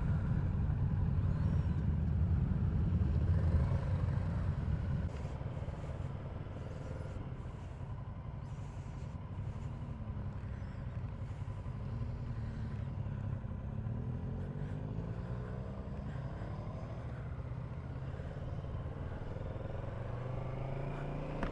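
Motorcycle being ridden, engine and wind rumble heard from the bike, louder for the first five seconds and then settling lower, with the engine's pitch rising and falling a little through the middle.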